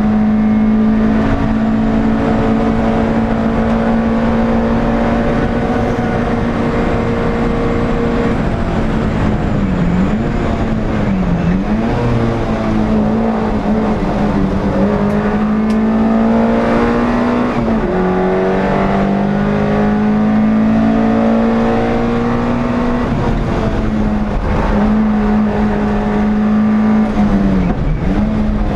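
NSU TT race car's air-cooled engine running hard at steady high revs, heard from onboard, its note dipping briefly a few times. Other race cars' engine notes rise and fall around it through the middle.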